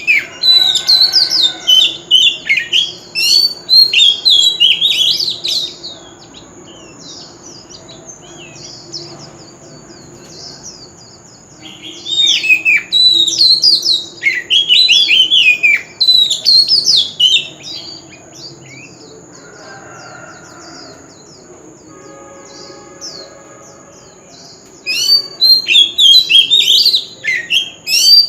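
Oriental magpie-robin singing rapid, varied whistled phrases full of quick up-and-down sweeps. The song comes in three spells, each several seconds long, with pauses of about five seconds between them.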